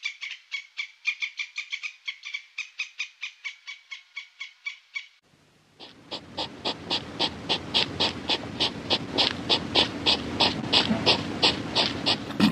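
Grey squirrel chattering: a fast run of short, high calls, about five a second, for the first five seconds. After a brief pause a different, louder animal call takes over, a steady train of pulses about three to four a second over a low drone.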